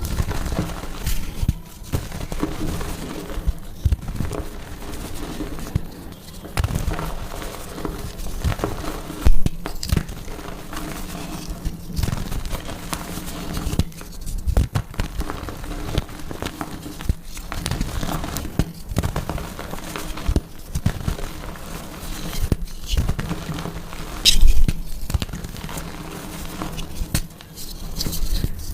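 Soft gym chalk being crushed and crumbled, a run of irregular crunches and powdery crackles with a few sharper, louder crunches, one about nine seconds in and another near the end.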